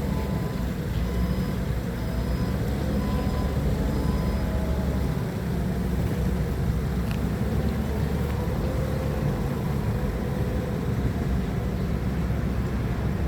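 Forklift engine running steadily under load, with its reversing alarm beeping regularly for the first few seconds and then stopping.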